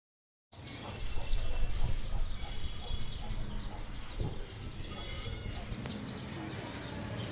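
Many birds chirping and calling at once, a dense run of short, high chirps, over a low rumble. It starts abruptly about half a second in.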